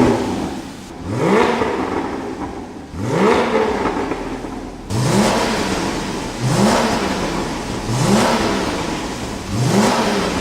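Porsche 981 Cayman flat-six through an iPE Innotech cat-back valved exhaust, revved in about seven quick blips, each climbing sharply in pitch and falling back.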